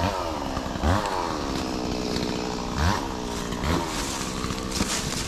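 Small gasoline engine revved in short blips, each one jumping up quickly and winding down slowly, about four or five times.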